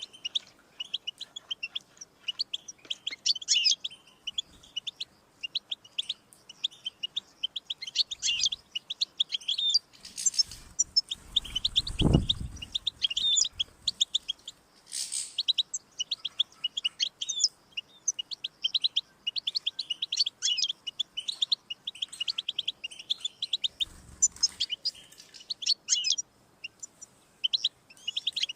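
European goldfinch singing a fast, continuous twittering song of rapid chirps and trills. A low, dull thump about halfway through and a fainter one near the end.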